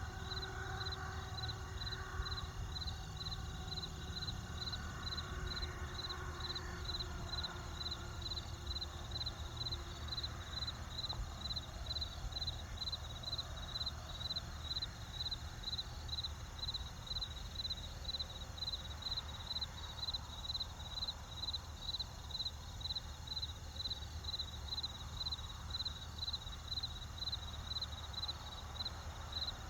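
Crickets chirping in a steady rhythm, about two chirps a second, over the low, steady rumble of a campfire.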